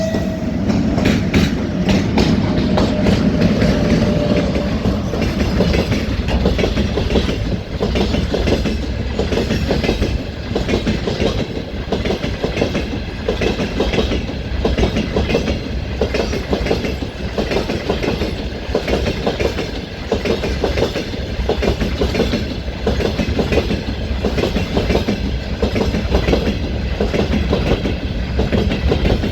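Freight train wagons rolling past, their wheels clattering in a steady rhythm over the rail joints.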